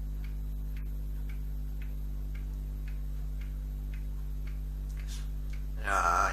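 Steady ticking, about two ticks a second, like a clock, over a constant electrical hum. Near the end a loud voice with a wavering pitch begins.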